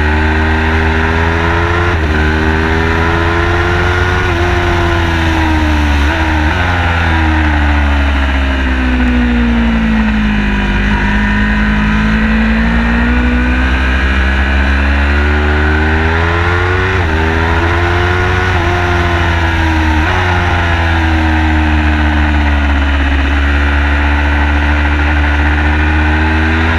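Car engine on a lap of a race track, its pitch climbing under acceleration and falling away under braking again and again, with sudden steps in pitch at gear changes. A loud steady low drone runs underneath.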